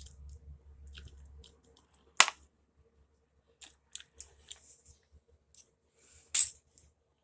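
Scattered clicks and knocks of hard objects being handled, with two sharp, loud knocks, one about two seconds in and one near the end.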